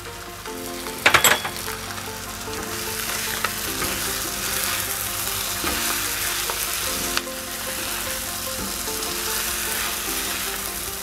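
Spiced paneer and cherry tomatoes sizzling in a non-stick frying pan while being stirred with a spatula, with a sharp knock about a second in.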